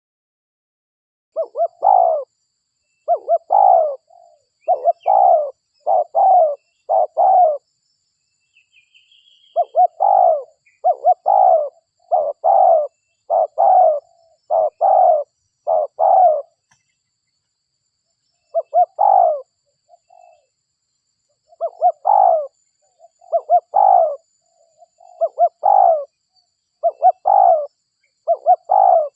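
Derkuku dove cooing in repeated phrases of short, low, quick notes, broken by two brief pauses. This is the lure call used to draw in wild derkuku. A faint, higher chirp from another small bird comes in briefly around the first pause.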